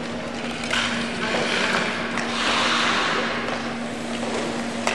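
Ice-rink noise during a sledge hockey game: hissing that swells twice, like blades scraping the ice, over a steady low hum, with one sharp knock near the end, such as a puck or stick hitting.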